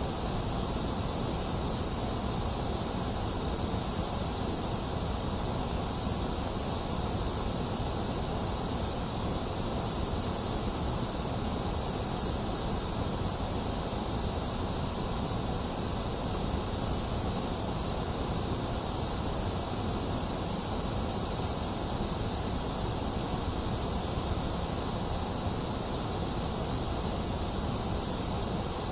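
A box fan running steadily, mixed with steady rain and no thunder: an even, unbroken hiss.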